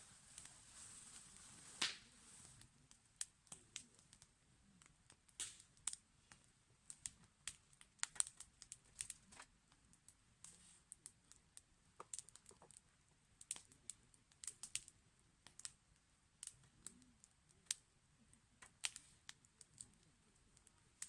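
Wood fire crackling: irregular sharp pops and snaps, a few a second, from burning wood.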